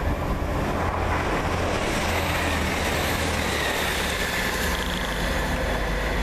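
A Networker Turbo diesel multiple unit passing through the station with a steady rumble of wheels on rail. The noise grows about a second in, and a faint whine falls slowly in pitch as the train goes by.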